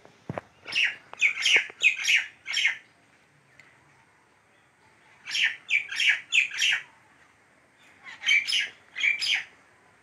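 Small bird chirping in three quick bursts of sharp chirps, each burst about a second and a half long, with a knock just before the first.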